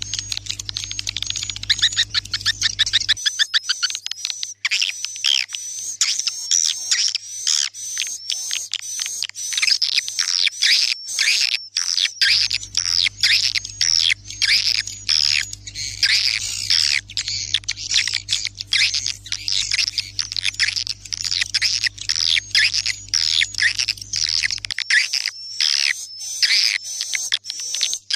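Swiftlet calls from a lure call track: a dense, unbroken run of short, high, falling chirps, many a second.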